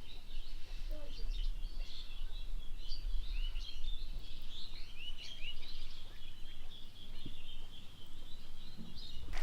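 Small birds chirping and twittering continuously in quick, high calls, over a low steady rumble.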